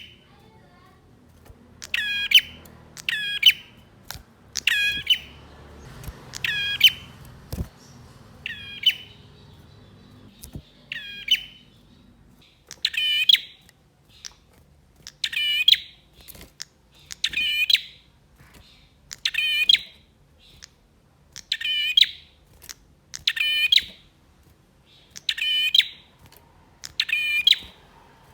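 Male prinia (prenjak) calling: short, sharp trilled bursts repeated about every two seconds, over a faint low hum during the first half.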